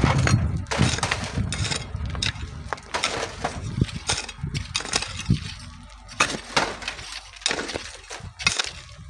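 Stones and gravel clattering in a rapid, irregular series of sharp knocks and crunches, typical of manual sand mining work.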